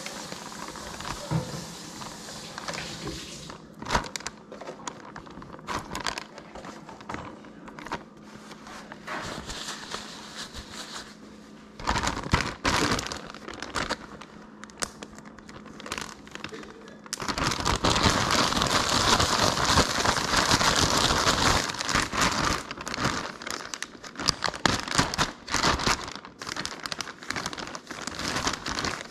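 Battered crappie frying in hot oil, a steady sizzle full of crackles and pops. The sizzle swells much louder a little past halfway, then settles back to scattered crackling.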